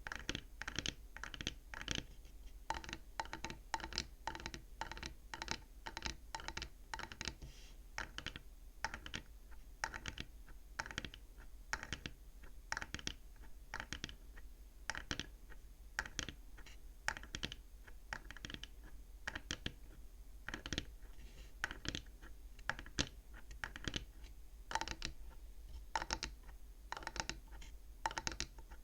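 Fingers tapping on the wooden frame of a bead abacus: quick, irregular dry taps, several a second, without pause.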